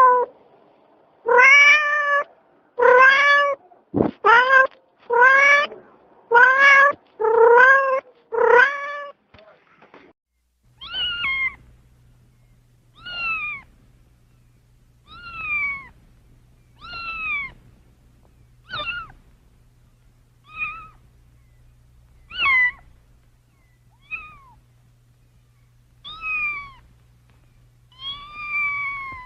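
Domestic cat meowing over and over. First comes a quick run of about eight loud meows, each rising in pitch. After a short gap, softer, higher meows come every couple of seconds, each rising and falling, over a faint steady low hum.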